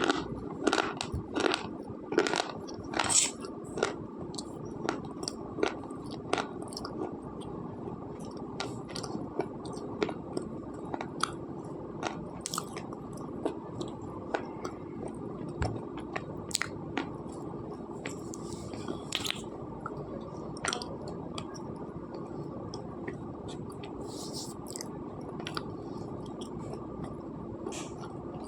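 A person biting and chewing slate pencils close to the microphone: a run of loud, sharp crunches in the first few seconds, then softer, scattered crunching clicks as the pieces are chewed down.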